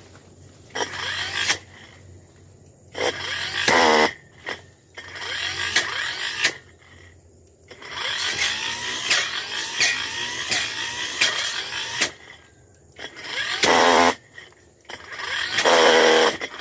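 Tanzu brush cutter engine revved up in repeated bursts, about six times, while its blade cuts through brush. Between the bursts it drops back to a low idle.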